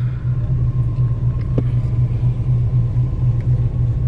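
1979 Chevrolet Caprice's engine running steadily at idle, a low even hum heard from inside the car.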